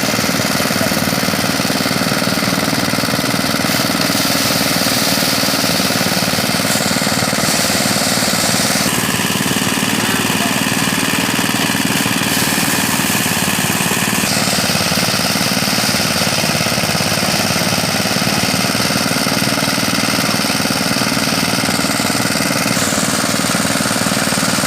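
Small engine-driven mini rice thresher running steadily and loudly, a dense mechanical din from its engine and threshing drum. The character of the noise shifts slightly about a third of the way in and again near the middle.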